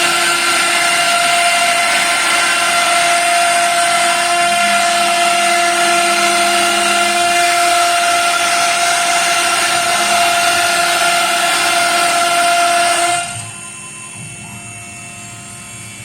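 CNC router spindle milling through an 18 mm chipboard sheet: a loud, steady high-pitched whine over cutting noise. About 13 seconds in it drops sharply to a much quieter steady running sound as the cutting stops.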